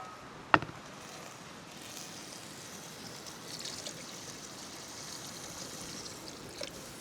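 Stream water trickling and flowing steadily, with one sharp click about half a second in.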